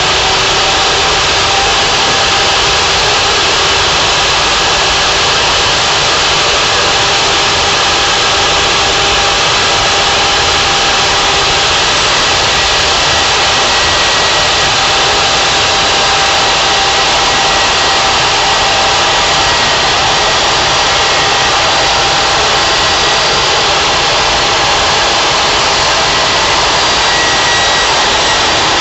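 Band saw running steadily, its motor and blade giving a loud, even whine with a few steady tones over a broad rush.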